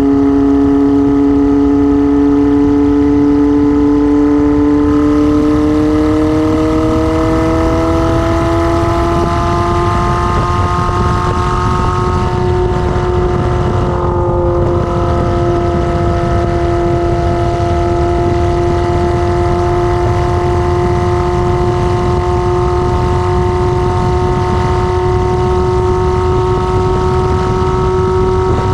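1999 Kawasaki ZR-7's 738cc air-cooled inline-four running on the move without an exhaust muffler. The engine note climbs smoothly for a few seconds as the bike accelerates, then holds steady over a loud, rushing low noise.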